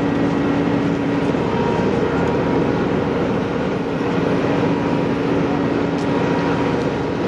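Steady drone of idling emergency-vehicle engines, with a humming tone that fades about a second in and returns near the end.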